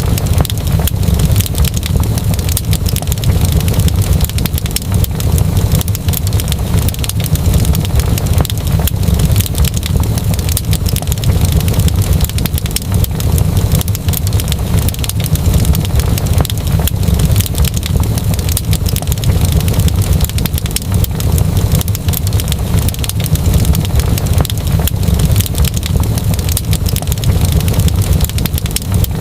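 Fireplace fire crackling steadily: dense small pops and crackles over a constant low rumble.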